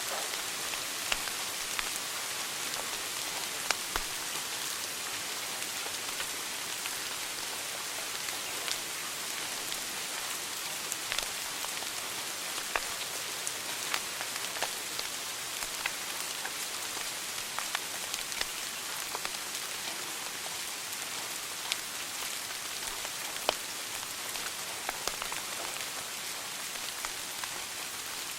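Wood fire in a fireplace crackling: a steady hiss with scattered sharp pops, a few of them louder.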